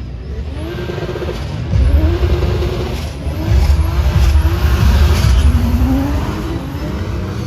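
Drift car engine revving hard, its pitch rising and falling repeatedly as the throttle is worked, over a heavy low rumble, with tyre squeal.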